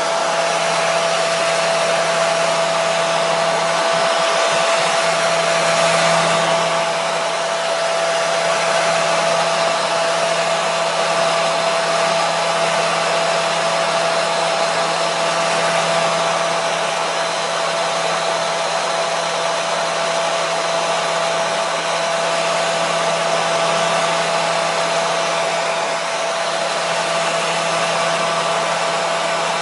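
Hair dryer running steadily: an even rush of blowing air over a constant motor whine and low hum, without change.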